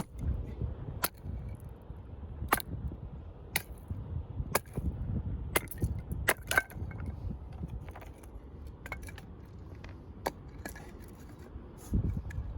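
Sharp cracks and knocks of firewood, about one a second for several seconds, then smaller irregular clicks, over a low rumble.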